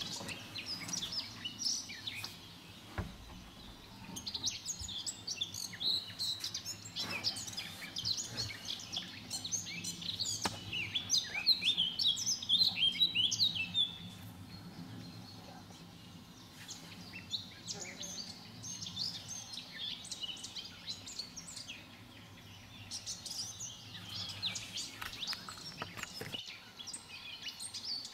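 Small songbirds chirping and calling in quick, overlapping phrases, busiest and loudest in the first half, thinning out in the middle and picking up again near the end.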